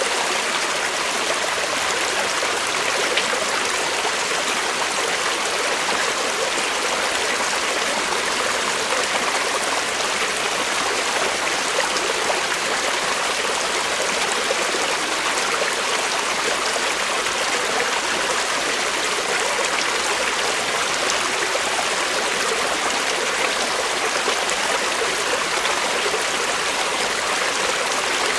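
Creek water flowing steadily over rocks, a continuous even rush and babble.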